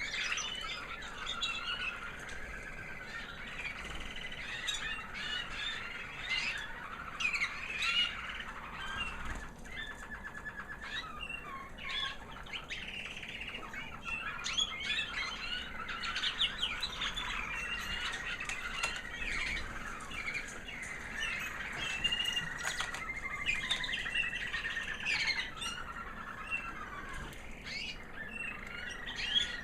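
American Singer canary hen singing a high, sweet little song of twitters and warbles that goes on without pause, with rapid trills in the later part.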